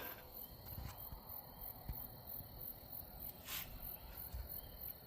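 Faint insects chirping in a fast, even rhythm of several chirps a second, with a few soft clicks.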